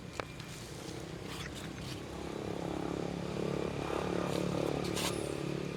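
A vehicle engine running with a steady hum, growing louder over the middle and easing off near the end, as if passing by, with a few sharp clicks.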